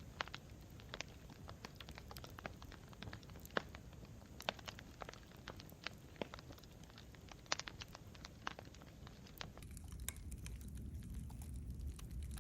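Campfire crackling: irregular sharp pops and snaps of burning wood over a low steady rumble. Near the end the rumble grows a little and the pops come more sparsely.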